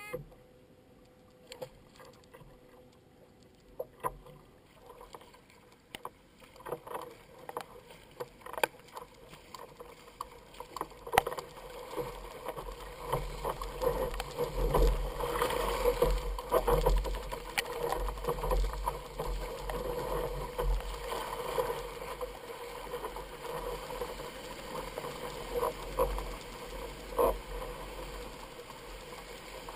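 Water splashing and sloshing around a kayak, with occasional sharp knocks. It grows louder about a third of the way in, joined by a low rumble.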